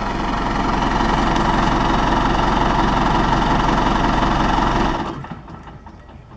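John Deere 5525N tractor's diesel engine idling steadily, then shut off about five seconds in.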